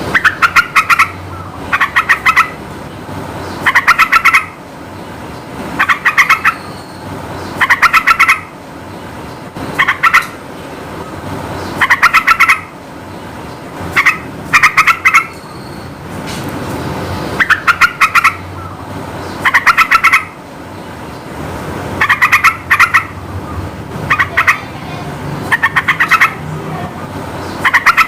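Yellow-vented bulbul (trucukan) giving short, bubbly chattering song phrases over and over, about one every two seconds, each a quick run of loud notes, over a steady background hiss.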